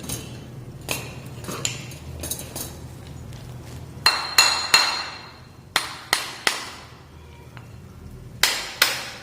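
A hammer tapping on the metal body of a seized car AC compressor to knock its parts apart. It lands in groups of two or three sharp, ringing metal strikes.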